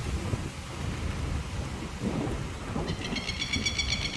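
Low rumble of an approaching thunderstorm, with wind. Near the end a rapid, high-pitched chattering call starts, repeating several times a second.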